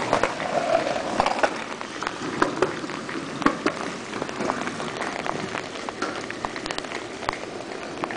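Steady rain falling, with many scattered sharp drips and taps on hard surfaces.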